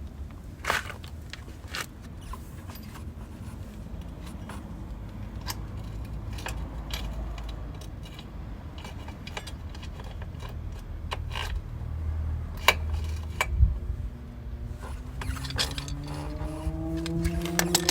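Scattered light metallic clicks and rattles over a low rumble, like parts or tools being handled. From about fifteen seconds in, a steady tone with overtones comes in and rises slowly in pitch.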